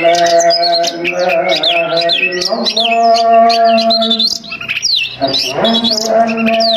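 Oriental magpie-robin (kacer) singing in rapid, varied whistled phrases of quick sweeping notes, over a steady low droning tone of several held pitches that drops out briefly about two-thirds of the way through.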